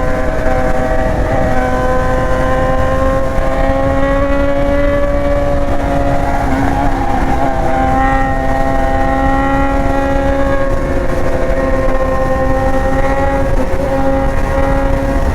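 BMW S1000R inline-four engine running at steady, nearly constant revs while the motorcycle is ridden, with a brief break in the note about halfway through, over a steady low rushing noise.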